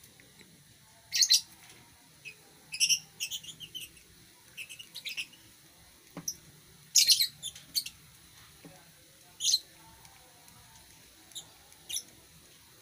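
Lovebirds giving short, high-pitched chirps and squawks in irregular bursts, a few strong ones followed by quieter single calls.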